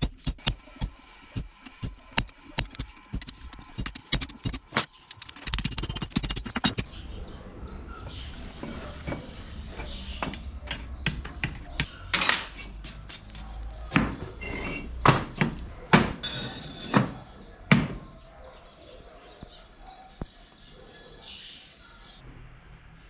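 Metal struck repeatedly with a hammer, sharp blows about two a second. About five seconds in, a steady low rumble joins, with more scattered heavy blows over it.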